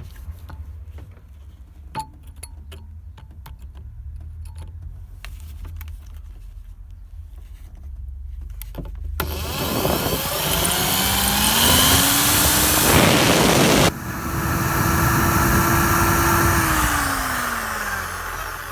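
Scattered handling clicks over a low hum, then about nine seconds in a power drill with a 4 mm metal bit spins up and bores into the rusted steel top nut of a rear shock absorber strut. The motor whine rises, holds steady under the grinding of the bit, dips abruptly once, and winds down near the end.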